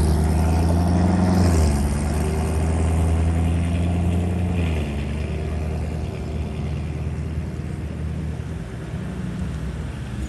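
Chevrolet C6 Corvette's V8 pulling away, its exhaust note stepping down in pitch twice, then fading as it drives off.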